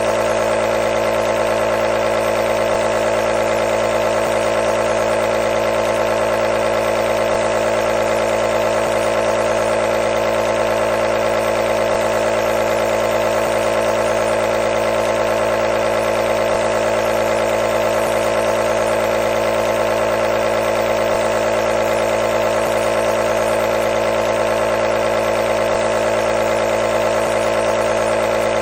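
A nebulizer running with a steady, unchanging buzzing hum.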